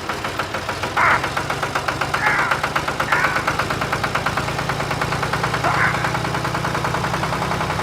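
Small engine running with a rapid, even knocking beat, more than ten beats a second, settling into a steady low hum about a second in. Brief voice fragments cut in over it a few times.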